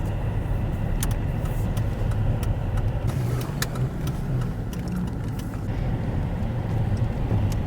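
Car driving along a road: a steady low engine and road rumble with a few faint ticks scattered through it.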